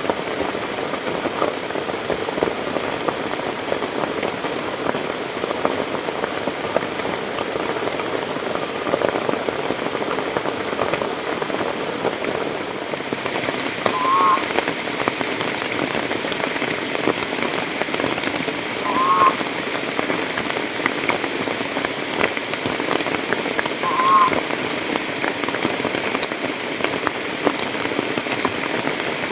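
Steady rain falling, with a slight change in its sound about halfway through. Three short chirping calls come about five seconds apart in the second half.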